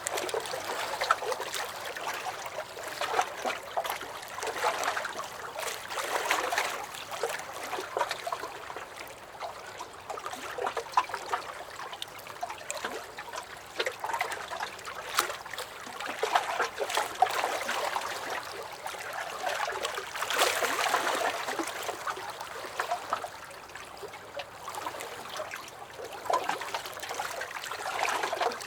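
Small lake waves lapping and sloshing against a dock, with little splashes and drips; the water swells and fades in an uneven rhythm every couple of seconds.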